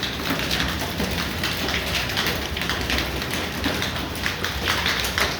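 Heavy rain falling on hard surfaces: a dense, steady hiss made of many small impacts.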